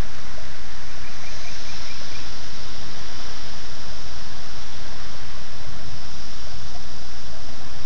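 Steady rain hiss after a storm, with a short run of about six quick high chirps about a second in.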